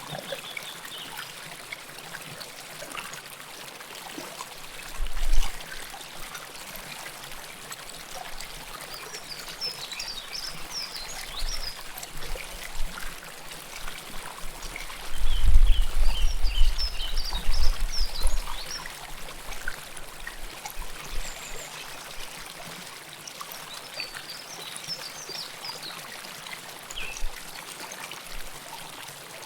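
River water flowing and trickling close up, a steady rush with small splashes. A low rumble comes in briefly about five seconds in and again for a few seconds around the middle.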